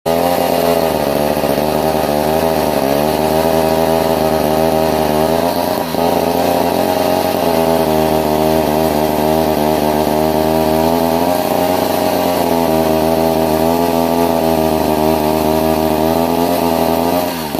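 Wright B520 reciprocating saw running through a test cut. Its motor note wavers and sags several times as the blade loads up in the cut, then drops near the end as the saw slows.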